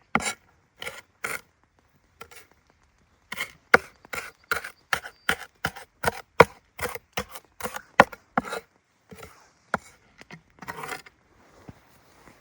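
A blade chopping against wood in a quick run of sharp strokes, about three a second, with a short pause about two seconds in; the chopping stops near the end, giving way to softer rustling and scraping.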